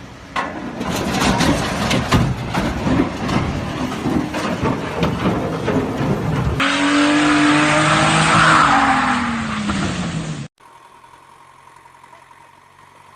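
Road vehicle sounds spliced from several clips. First comes a stretch of dense clattering and knocking, then a vehicle passing with a rushing sound and an engine note that falls in pitch. After an abrupt cut there is a quieter steady engine hum.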